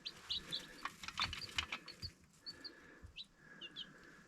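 Baby chicks peeping: many short, high peeps in quick succession, thinning out near the end, with a few soft taps in between.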